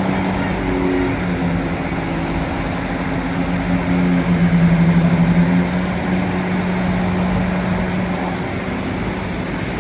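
Bulldozer's diesel engine running steadily; about four seconds in its note drops and grows louder with a pulsing beat for a second or so, as under load, then settles back.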